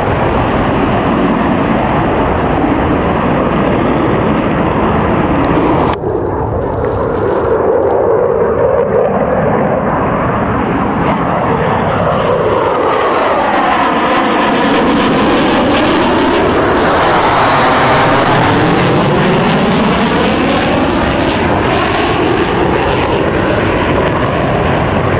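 Loud jet noise from Mirage 2000D fighters' SNECMA M53 turbofans flying past in a display pass. The tone changes suddenly about six seconds in, and later it sweeps down and back up in pitch as the jets go by.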